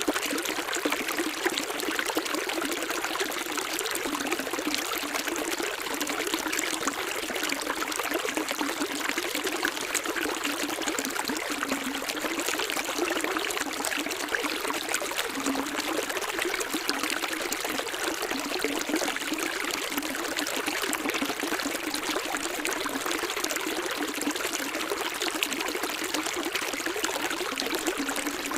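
Flowing water, a stream trickling and splashing in a steady rush with little low rumble.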